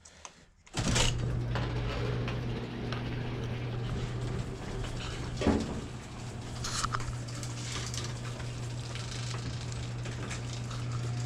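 Electric garage door opener running as the overhead door opens: a steady motor hum with rattling from the door and track, starting about a second in, with a couple of clanks midway.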